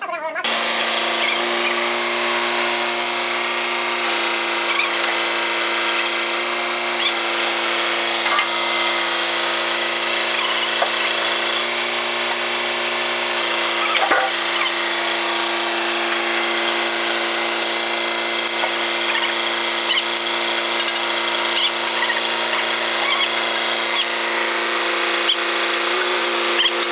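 Angle grinder running continuously on the steel of a loader bucket: a steady motor hum under a loud, even grinding hiss.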